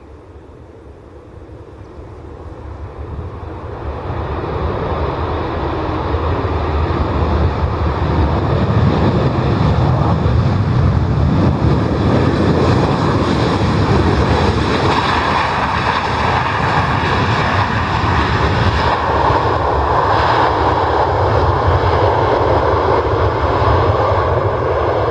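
Airliner engines building up over the first several seconds, then running loud and steady with a deep rumble under a broad rushing noise, as an aircraft passes close by.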